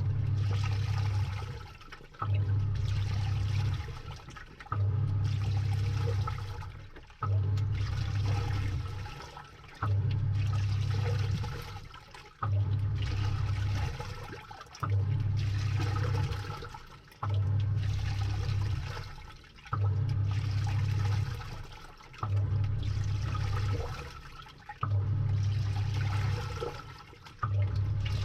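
Samsung 6.5 kg top-load washing machine's pulsator agitating the load, heard from inside the tub: a motor hum with water sloshing, in strokes that start about every two and a half seconds and fade before the next one as the pulsator reverses.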